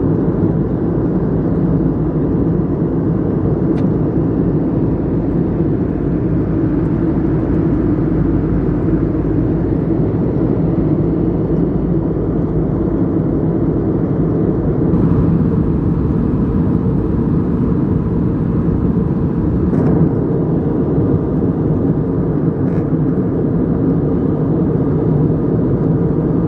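Steady cabin noise of an Airbus A321 in flight: an even rumble of engines and airflow, with a few faint clicks.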